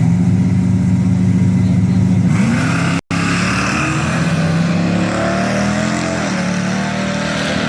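Car engine running with a steady low note, then revving up about two seconds in; after a brief dropout, engine noise continues with its pitch rising as a car accelerates.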